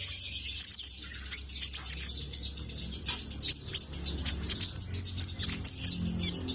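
A small songbird chirping: quick, short, high-pitched notes repeated several times a second.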